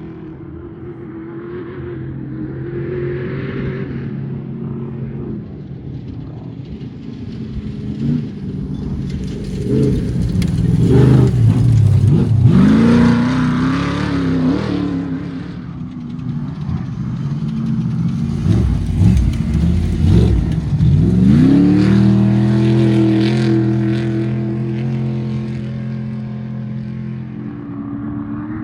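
Off-road race vehicle engines revving hard. The sound swells twice, about a third of the way in and again about two-thirds of the way in, with the pitch swooping down and back up as the throttle comes off and on.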